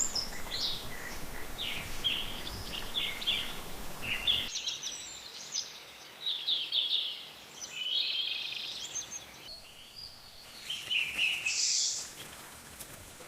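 Wild songbirds chirping and calling in quick, high-pitched bursts over a steady outdoor background hiss, with the background changing abruptly twice where separate field recordings are cut together.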